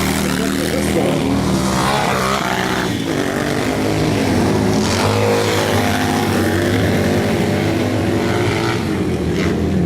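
Several hooligan-class race motorcycles running together, their engine notes overlapping and rising and falling in pitch as the riders rev through the gears and corners.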